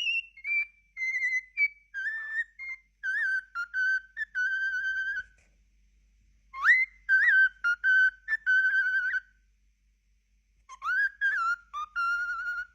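A pet bird whistling a tune in clear, pure notes: a run of short notes and held tones over the first five seconds, a second phrase from about six and a half seconds in, and a third near the end.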